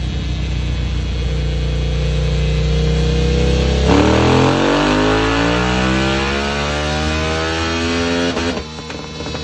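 KTM 890 Duke R's parallel-twin engine, breathing through a full Akrapovic exhaust, held at a steady low speed and then revved up hard on a dyno pull, its pitch climbing steadily for about four seconds before the throttle is shut sharply near the end.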